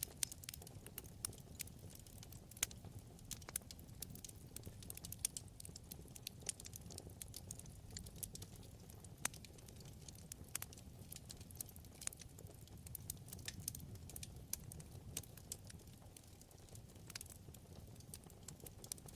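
Wood fire crackling: irregular sharp pops and snaps from the burning logs over a low, steady rumble of flame.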